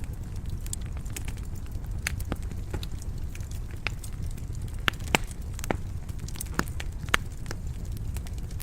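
Wood fire crackling in a stone fireplace: irregular sharp pops and snaps over a steady low rumble of the burning logs.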